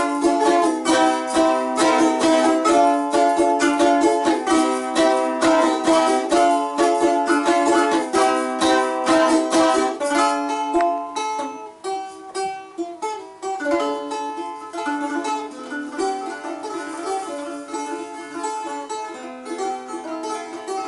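Balalaika playing: fast, dense strumming that gives way about halfway through to quieter, sparser plucked notes.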